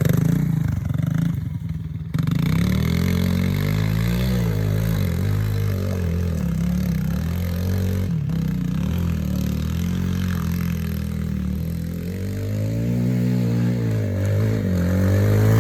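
Yamaha TT-R110 pit bike's single-cylinder four-stroke engine revving up and down as it is ridden hard through a corner, its pitch rising and falling repeatedly, with a brief drop about two seconds in.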